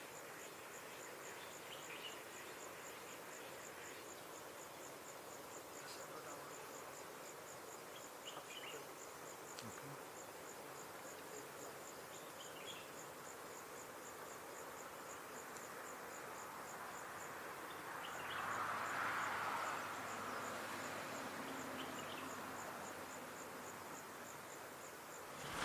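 An insect chirping, a very high pulse repeating steadily several times a second, with a few short, faint bird calls. A rushing swell of noise with a low hum rises and fades near the end.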